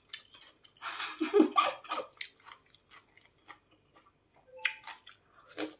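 A person chewing a springy fried fish cake with the mouth closed: soft wet mouth clicks and smacks, with a brief muffled vocal sound about a second in.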